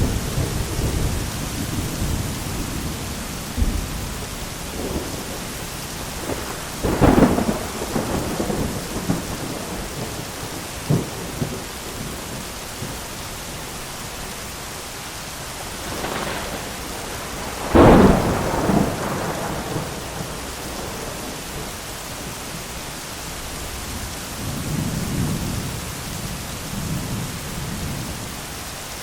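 Steady heavy rain with rolling thunder: rumbles near the start and again late on, and two sharp, loud thunder cracks about 7 and 18 seconds in, the second the loudest.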